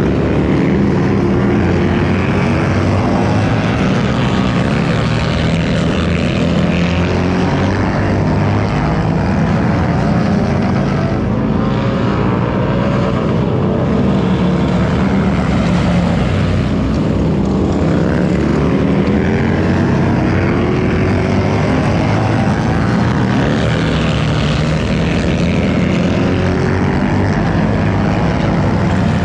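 Motorcycle engines running loud and continuous, their pitch rising and falling as the throttle opens and closes.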